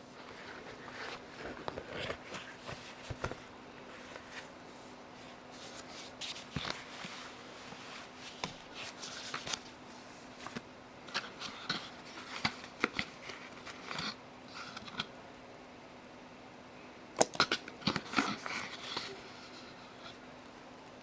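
Packaging and accessories being handled and unpacked by hand: irregular rustling, crinkling and light clicks, with a louder flurry of sharp clicks and taps near the end, over a faint steady hum.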